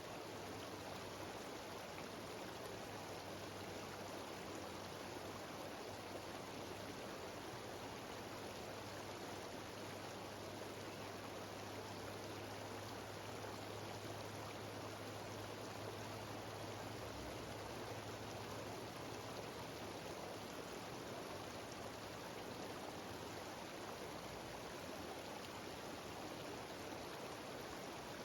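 Mountain stream cascading down a series of small waterfalls: a steady rushing of water.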